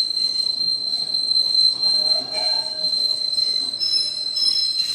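Passenger rail cars rolling past, with a steady high-pitched wheel squeal over the running rumble.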